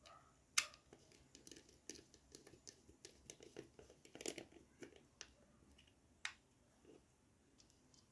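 Faint, scattered clicks and small scrapes of a digital multimeter's plastic case and circuit-board screws being fitted and tightened by hand, with the sharpest clicks about half a second in and just after four seconds in.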